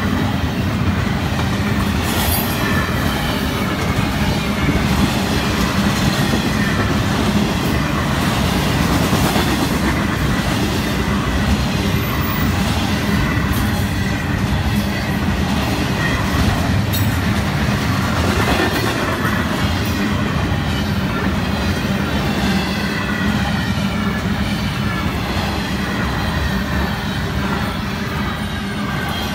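Double-stack intermodal freight cars rolling past close by: a steady rumble and clatter of steel wheels on rail, with a few sharp clanks, easing off slightly near the end.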